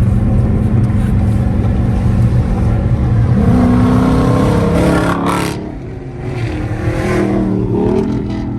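Car engine running steadily, then accelerating with a rising pitch about three seconds in. It drops back and goes quieter around five and a half seconds, then climbs again near the end.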